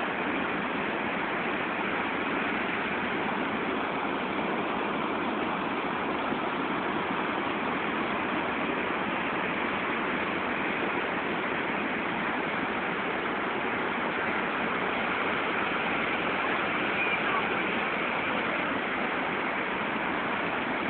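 Steady rush of a large waterfall in flood, swollen with rainy-season water.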